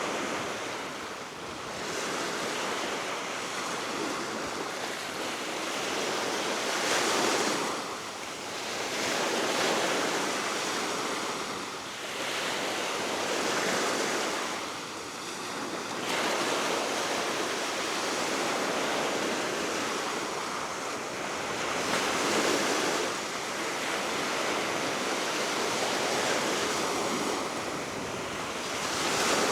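Baltic Sea waves breaking and washing ashore, the surf swelling and easing every few seconds, with steady wind blowing.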